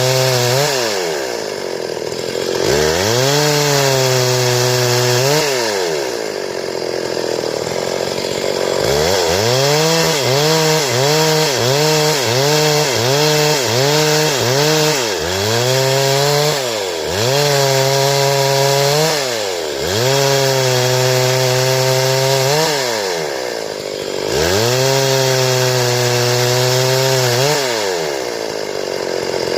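Stihl chainsaw cutting boards, its engine revving up and holding high, then falling away and climbing again every few seconds. For a stretch in the middle the revs waver about twice a second.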